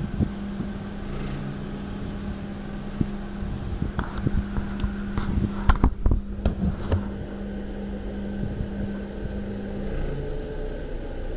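2003 Honda Civic EX running at very low RPM with a steady hum, and a burst of irregular rattling clicks in the middle that is loudest about six seconds in. This is the unexplained rattle the car makes when gently accelerating or decelerating at low RPM.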